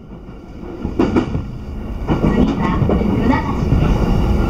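Running noise of a moving commuter electric train heard from inside the carriage: a steady low rumble that grows louder over the first two seconds, with a sharp click of the wheels over the rails about a second in.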